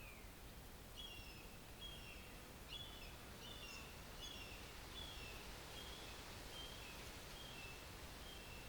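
A songbird chirping over and over in short falling notes, about one and a half a second, starting about a second in, over the faint low rumble of distant highway traffic.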